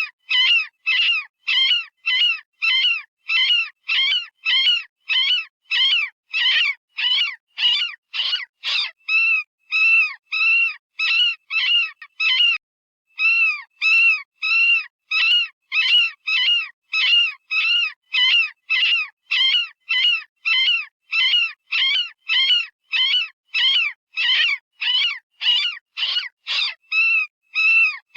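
Synthetic rabbit distress call from animal-sound software, of the kind used as a predator-hunting call: short high-pitched squeals repeated about two a second. It breaks off once for about half a second near the middle.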